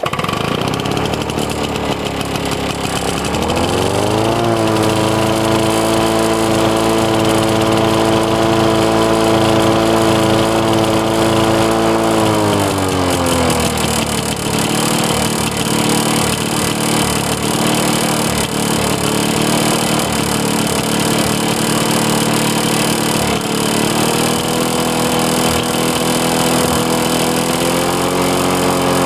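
Lawn-Boy 10550's DuraForce two-stroke engine running just after a cold start on full choke, with one prime. It speeds up about three to four seconds in and holds there. Around twelve to fourteen seconds in it slows to a lower steady speed, with a small rise in pitch late on.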